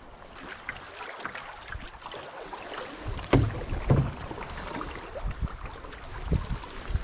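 Canoe on the water: paddle strokes and irregular knocks of wood against the hull, with two louder thumps a little past the middle.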